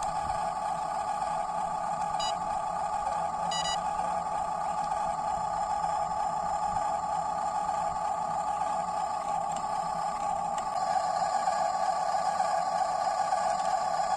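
The small electric motor of a WLtoys 14600 RC dump truck whining steadily. It gets a little louder after about eleven seconds.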